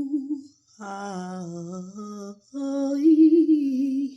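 A woman singing slow, wordless held notes with a wavering vibrato, in three phrases with short breaks between them.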